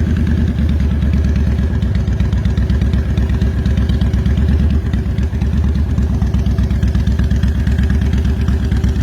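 Honda Fury's 1312 cc V-twin engine idling steadily with a deep, rapidly pulsing exhaust note.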